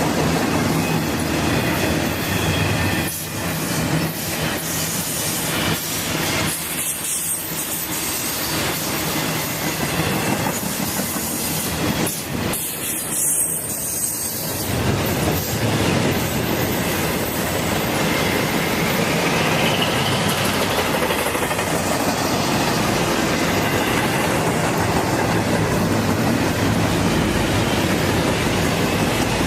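A Norfolk Southern train rolling past on the rails: a continuous, steady noise of wheels on track.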